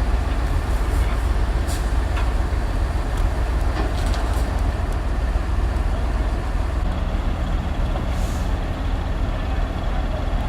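Heavy diesel truck engine running steadily with a deep rumble, with a few light clicks and a short hiss about eight seconds in.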